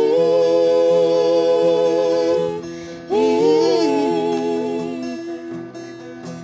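Bajawa regional song: a singer holds one long note for about two and a half seconds, then sings a shorter phrase that fades away, over acoustic guitar accompaniment.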